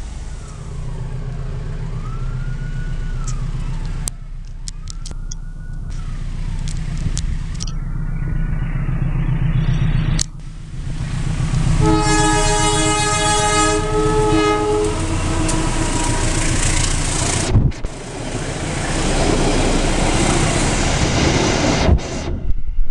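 Diesel locomotive's multi-tone horn sounding for about three seconds as it approaches, then the rumble and clatter of its passenger coaches passing close by on the rails. Before the horn there is a low steady diesel drone with faint, repeating rising-and-falling tones.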